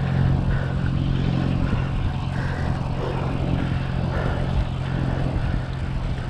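Steady drone of motor traffic, a low engine hum that holds one pitch, mixed with road and wind noise.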